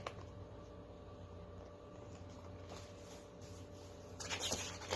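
Quiet room tone with a low steady hum, and faint rustling near the end.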